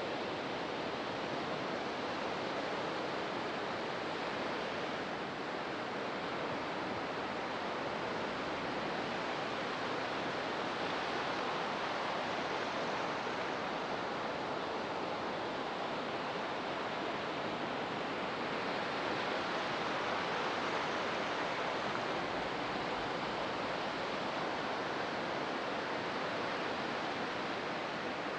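Ocean waves breaking on the shore: a continuous rush of surf that swells and eases slowly.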